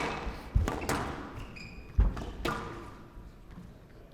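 Squash ball struck by rackets and hitting the court walls during a rally: about five sharp knocks at uneven spacing, the loudest about two seconds in.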